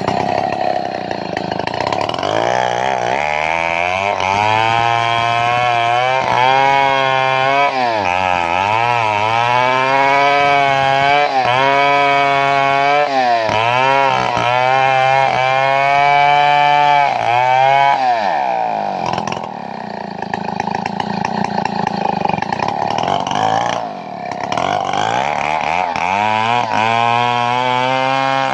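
Two-stroke chainsaw engine running at high revs, its pitch sagging and recovering again and again as if working under load. About two-thirds of the way through it drops to lower revs, then revs up again near the end.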